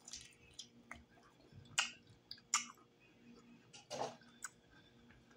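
Close-up chewing of breaded fried chicken hearts: a mouth biting and chewing, with short, irregularly spaced wet clicks and crackles, the loudest a little under two seconds in.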